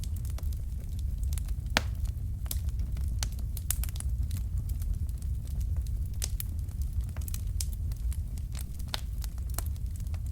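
Wood fire crackling: irregular sharp pops and snaps over a steady low rumble of the flames, with one louder pop a little under two seconds in.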